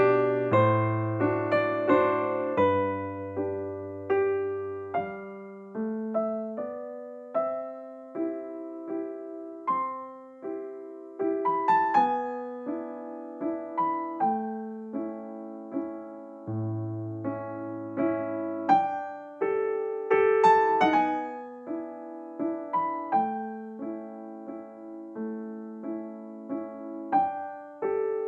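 Background music: a gentle solo piano melody over held low bass notes, each note struck and fading.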